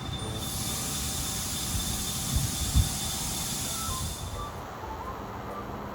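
A cicada buzzing: a steady, high-pitched hiss that starts just after the beginning and fades out about four seconds in. Underneath is a low rumble, with two brief low thumps near the middle.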